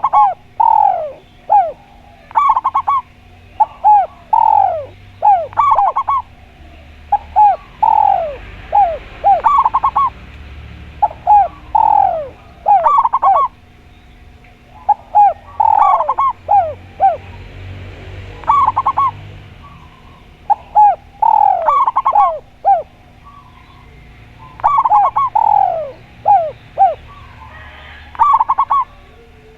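Doves cooing, a spotted dove (tekukur) and a zebra dove (perkutut): repeated phrases of short, loud notes, each falling in pitch, with pauses of a second or two between phrases. A faint steady hum sits underneath.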